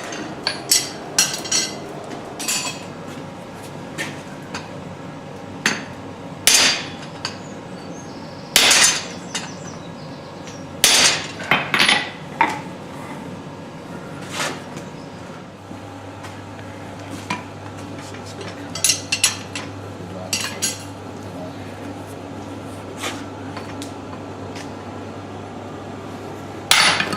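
Irregular hammer blows on stainless steel at a blacksmith's anvil: single sharp, ringing metal strikes, sometimes a second apart, sometimes several seconds, over a steady low hum.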